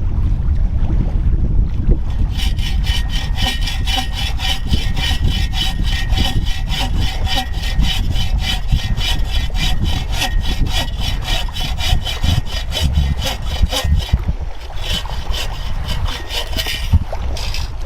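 Hand saw cutting through a piece of wood in quick, even back-and-forth strokes, starting about two seconds in. It pauses near fourteen seconds, then saws again briefly. Wind rumbles on the microphone throughout.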